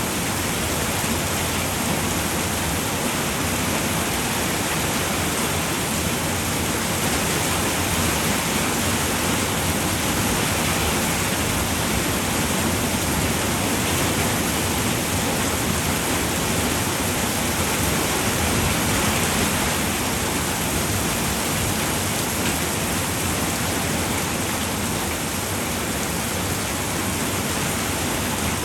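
Rain falling steadily on a roof: a dense, even patter that holds constant throughout.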